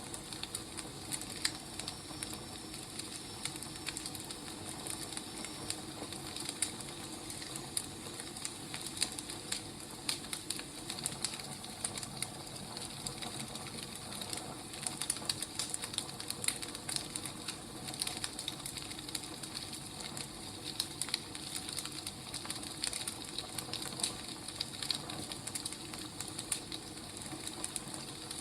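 Burning firewood crackling: a steady hiss with frequent small, irregular pops and snaps.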